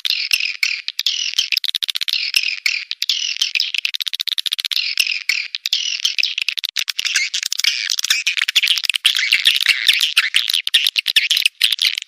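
Swiftlet call recording: a dense, unbroken twittering of many high-pitched swiftlet chirps, packed with rapid sharp clicks, with no low end at all.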